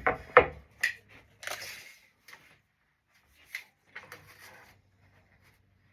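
Wooden boards being handled on a shop bench: three sharp knocks and clacks in the first second, a short scraping rub, then a few light ticks and scuffs.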